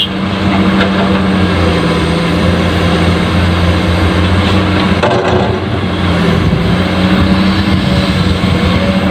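Steady truck engine sound, a loud droning hum that dips slightly in pitch around the middle and comes back up.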